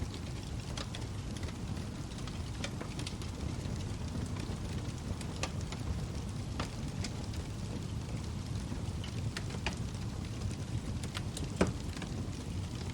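Log fire burning in a fireplace: a steady low rush of flames with scattered sharp crackles and pops from the burning wood, one louder pop near the end.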